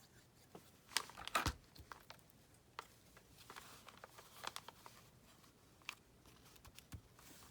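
Paper being handled on a craft table: scattered rustles, crinkles and light taps, with a louder brief rustle about a second in.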